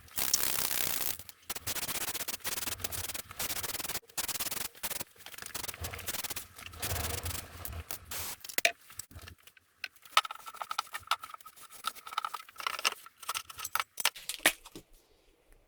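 Repeated short bursts of scraping and rubbing, stopping and starting every second or so, with a faint steady whine from about ten seconds in to about thirteen seconds.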